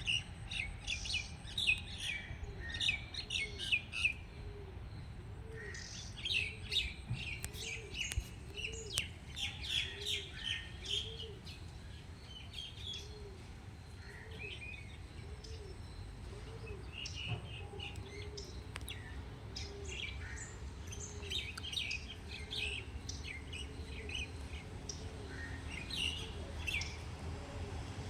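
Birds chirping in many short, quick notes, over a low call repeated a little more than once a second and a steady low background rumble.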